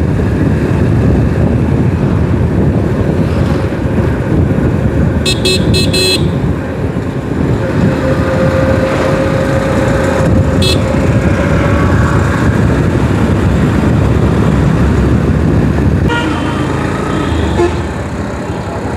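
Steady rush of wind and road noise from a moving motorcycle, its engine running underneath. A vehicle horn beeps four quick times about five seconds in, and gives one more short toot about ten seconds in.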